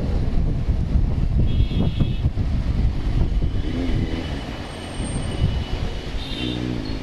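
Road traffic heard from a moving motorcycle: a steady rumble of engines and tyres. Two short pitched tones sound, one about four seconds in and one near the end.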